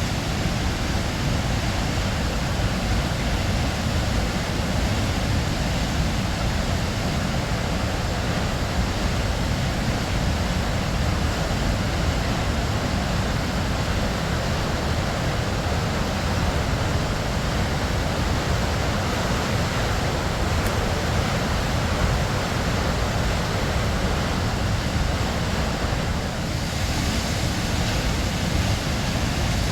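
Waterfall: water falling and splashing in a steady, dense rush with a deep low rumble.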